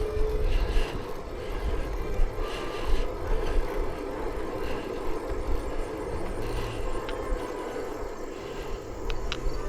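Steady wind and road noise while riding a bicycle on the road, with a couple of sharp ticks near the end.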